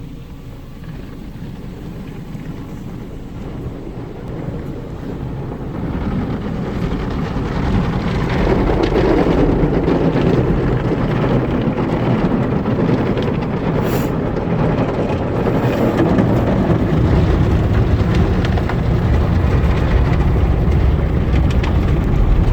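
Automatic car wash running over a car, heard from inside the car: an even, rushing noise that builds over the first eight seconds, then stays loud and steady.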